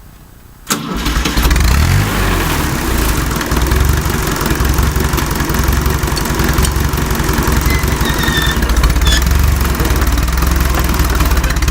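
Fiat 352C tractor engine starting: a sharp click under a second in, then the engine catches and rises in pitch before settling into a steady run.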